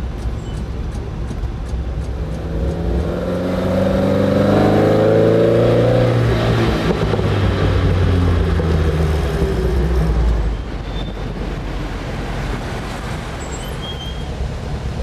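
Car engine accelerating on the road, heard from inside the moving car: the engine note climbs a few seconds in, then holds and slowly falls, and drops back to a steady driving noise about two-thirds of the way through.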